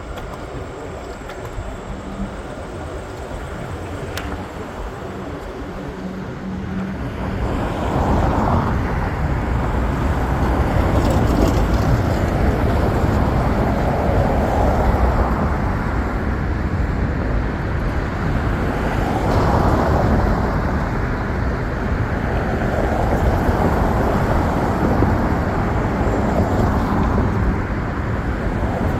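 PATH train running with a steady rumble that grows louder from about seven seconds in.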